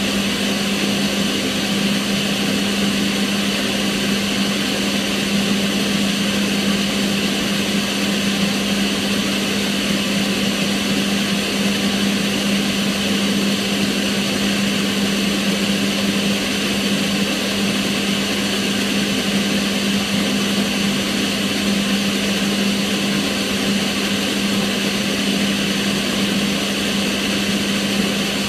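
Kitchen range hood extractor fan running steadily: an even rush of air over a constant low hum.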